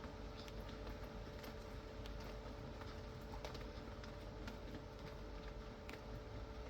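Rain falling, with irregular drops tapping sharply on a hard surface over a steady hiss of rain. A faint steady hum runs underneath.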